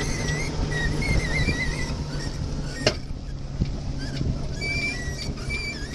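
Sheet line squeaking as it is hauled under load on the sailboat's hardware while the larger headsail is set. The squeaks come in wavering runs at the start and again near the end, with one sharp click about three seconds in, over steady wind and water noise.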